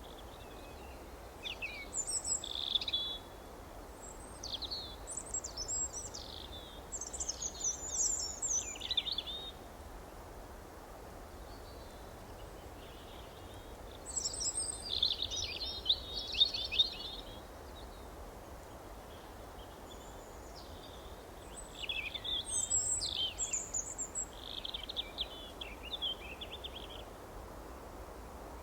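A songbird singing in three bursts of quick, high chirps and trills, with pauses of several seconds between them, over a steady low background hiss.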